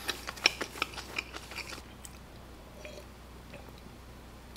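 A person chewing a mouthful of food close to the microphone: a quick run of small clicks over about the first two seconds, then it goes quiet.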